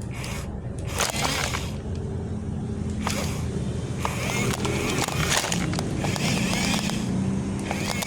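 Excavator running with a steady low drone, with repeated short bursts of scraping noise over it.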